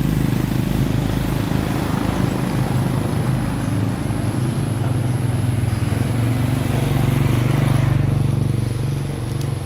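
A motor vehicle's engine running steadily and close by, with a fast, even low pulsing.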